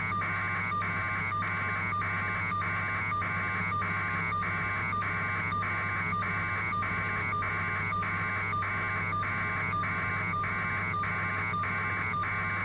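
Steady helicopter cabin noise heard over a telephone line: a constant low hum with a higher band that pulses evenly about twice a second.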